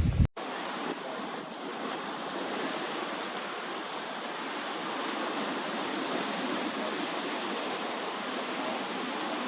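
Steady wash of sea surf, even and unbroken, with no gull calls. Just after the start, a burst of low wind rumble on the microphone cuts off suddenly.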